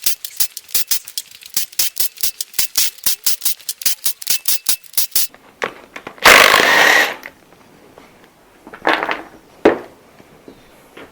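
Ratchet wrench turning on the cylinder head nuts of a Ford flathead V8: a quick, even run of clicks, about seven a second, for some five seconds. Then a loud rush of noise lasting about a second, and two shorter bursts near the end.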